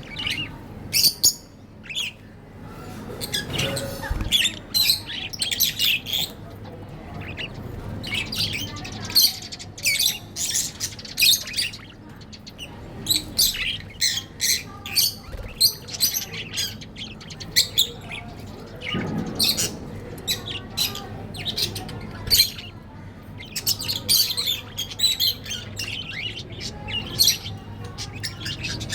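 Budgerigars chirping and chattering: many short, high chirps in quick bursts with brief pauses between them.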